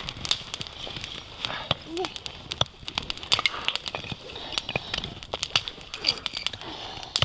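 Freshly lit campfire of small dry twigs crackling, with irregular sharp snaps and pops.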